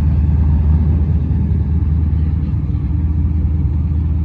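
A car engine running, a steady low rumble with no clear rise in revs.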